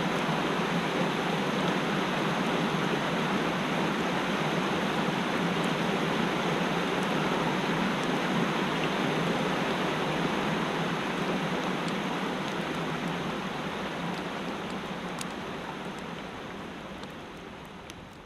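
Mountain stream rushing steadily over rocks, fading out over the last few seconds.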